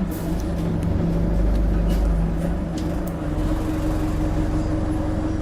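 Bus engine pulling under load, heard from inside the bus: a deep rumble with a steady engine note that eases off about three seconds in, with scattered rattles and clicks from the bodywork.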